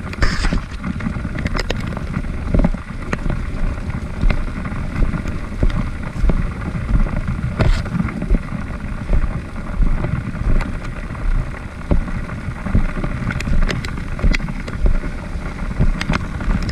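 Trail motorcycle engine revving in repeated surges, about one a second, with wind buffeting the microphone.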